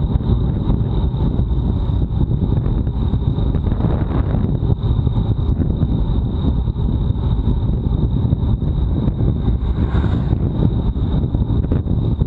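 Steady wind rush buffeting the microphone of a bicycle-mounted action camera at racing speed, a dense low rumble mixed with road noise. A thin, steady high-pitched whine runs underneath.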